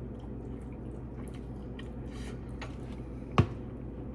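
Small wet mouth clicks and smacks of someone chewing spicy instant noodles over a steady low hum, with one sharp knock about three and a half seconds in.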